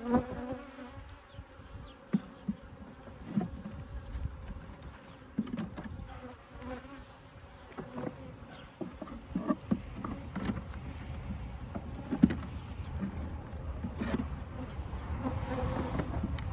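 Honeybees buzzing around an opened hive, with irregular sharp knocks and clicks from wooden hive frames being lifted out and moved.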